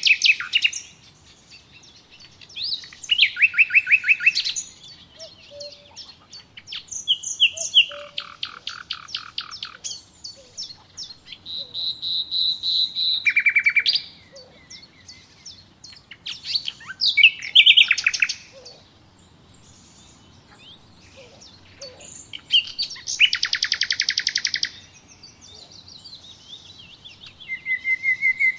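Songbirds singing in a series of separate phrases a few seconds apart, many of them fast trills of rapidly repeated notes, with short whistled notes in between.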